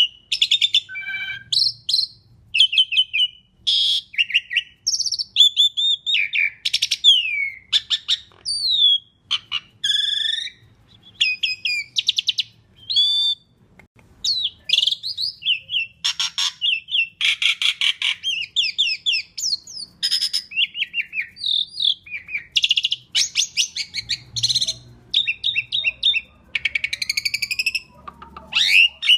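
Asian pied starling (jalak suren) singing a long, busy song of varied whistles, squeaky chatter and fast strings of clicks, many notes sliding up or down in pitch, with only brief pauses.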